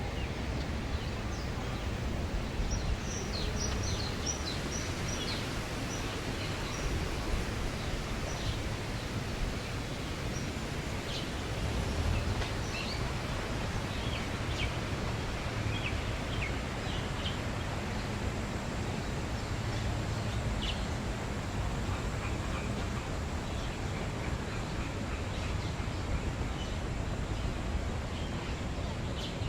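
Birds giving short, high chirps, with a quick run of them a few seconds in and scattered calls after that, over a steady rushing background noise.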